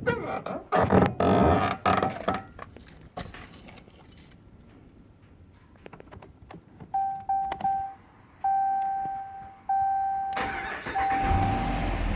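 Keys jangling, then the 2014 Ram 2500's chime beeping at one steady pitch in a run of short and longer tones. Near the end, the truck's engine starts and runs.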